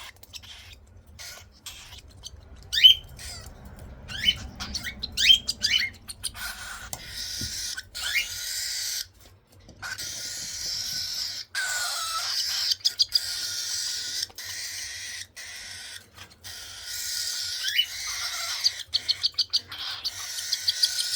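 Baby cockatiels begging while being hand-fed: short rising chirps give way to long raspy, hissing food-begging calls, with a quick run of rapid chirps near the end.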